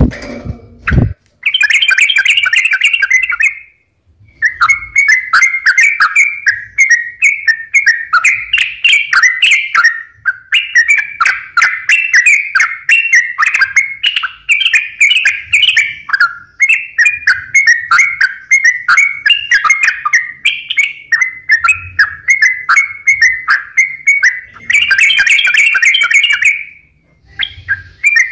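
Yellow-vented bulbul (trucukan) song: long runs of fast, bubbly chattering phrases with only short pauses, the lure song used to set caged bulbuls singing. A brief low thump about a second in.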